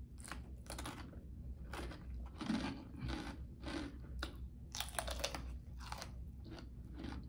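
Crunching and chewing of a raw jalapeño stuffed with cream cheese and Takis chips: a string of sharp crunches, roughly two a second and unevenly spaced.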